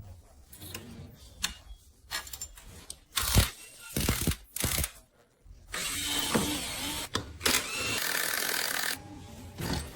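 Tools at work on an electric scooter motor: clicks and knocks, three short noisy bursts, then two longer spells of a steady power-tool-like noise.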